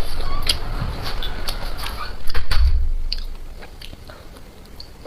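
Close-miked eating: biting and chewing with sharp wet clicks, and a dull thump about two and a half seconds in, after which the sounds grow quieter.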